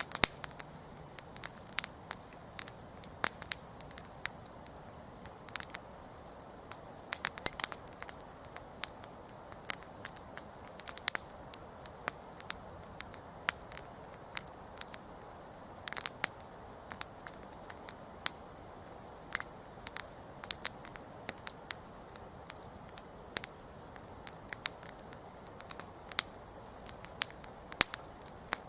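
Wood campfire burning, with a steady soft hiss and many sharp irregular crackles and pops, a few louder snaps scattered through.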